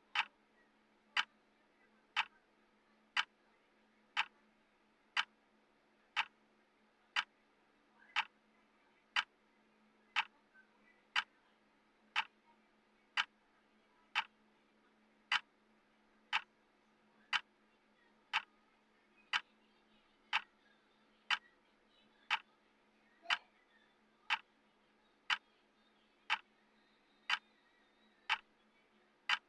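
Clock tick sound of a countdown timer, sharp ticks at a steady one per second, over a faint steady hum.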